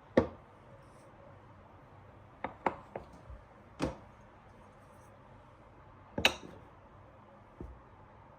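About seven scattered light knocks and clinks of household objects being handled and set down. The loudest come just after the start and about six seconds in.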